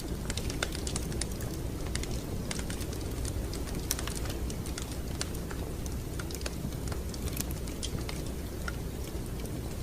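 Fireplace fire crackling: irregular sharp pops and snaps, several a second, over a steady low rumble of the burning fire.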